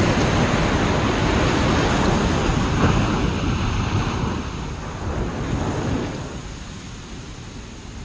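Ocean waves breaking and washing up a beach, with wind blowing across the microphone. The surf is loud for the first few seconds, then fades as the wash recedes, from about four to six seconds in.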